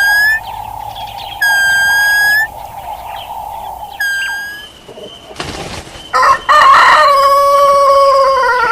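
Rooster crowing loudly for about two seconds, starting past the middle. Before it come a few high, drawn-out bird calls over a steady background hum.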